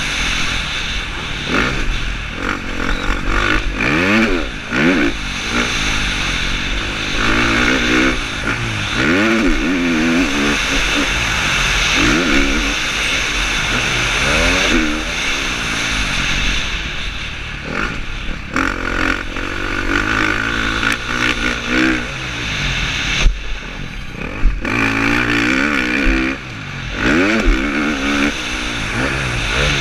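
KTM 350 SX-F four-stroke single-cylinder motocross bike racing, its engine revving up and dropping back over and over as it is throttled and shifted around the track. It is heard from a helmet camera, over a constant rushing noise.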